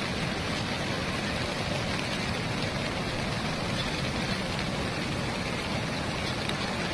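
Water rushing out through a lake's opened flood gates, a steady, unbroken rush of noise.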